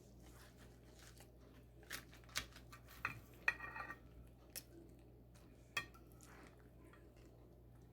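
Cutlery clinking against a plate several times, with one short ringing clink in the middle.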